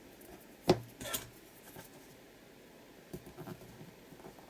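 Paper and washi tape being handled on a craft table: a sharp tap a little under a second in, followed at once by a short scratchy rustle, then a few light taps later on.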